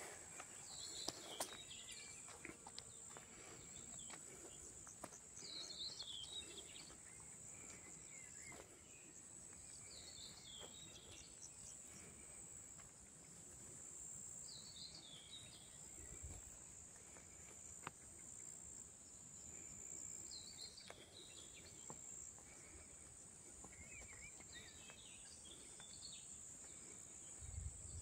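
Faint outdoor ambience: a steady high-pitched insect trill, like crickets, with a bird giving a short burst of chirps every four to five seconds.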